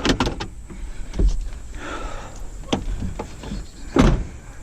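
A series of sharp knocks and clicks of objects being handled, with a short hiss about two seconds in and a louder knock near the end.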